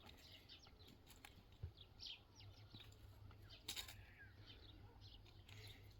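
Faint, scattered short bird chirps, with a few sharp clicks and a low steady hum underneath.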